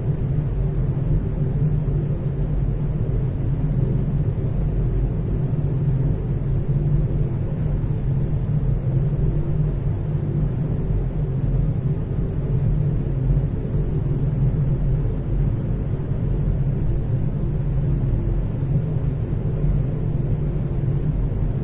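Room tone of a large hallway with the ventilation running: a steady low rumble and hum that does not change.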